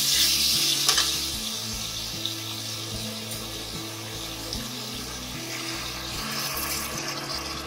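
Potatoes frying in oil and spice paste in a pan, sizzling steadily while a spatula stirs them. Near the end water is poured in from a cup and the hiss swells a little.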